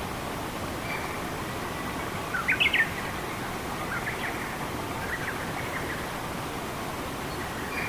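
Forest ambience: a steady rush of running water with small songbirds chirping over it. A short bright phrase of quick rising notes comes about two and a half seconds in, then scattered chirps and faint whistles.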